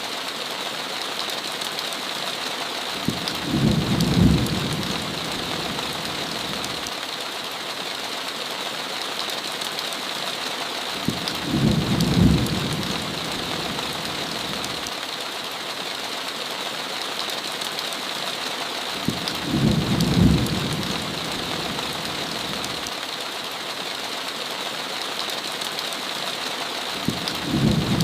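Steady heavy rain on a window, a constant hiss. Four short, low thunder rumbles come at even intervals about eight seconds apart.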